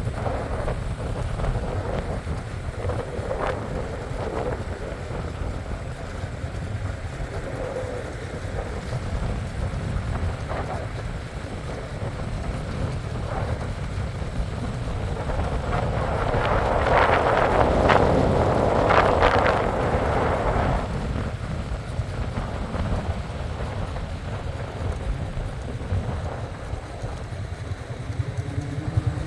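Steady low rumble with wind noise on the microphone, swelling into a louder rushing noise about two-thirds of the way through.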